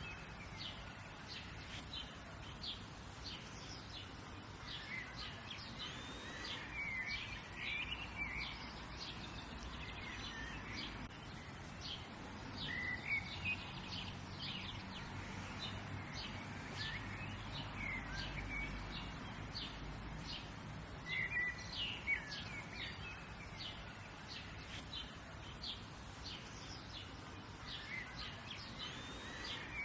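Wild birds chirping and calling, many short chirps and quick trills from several birds throughout, over a steady background hiss.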